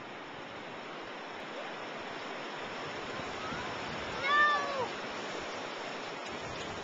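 Steady wind rushing over the microphone. About four seconds in, one short high call rises and falls over about half a second.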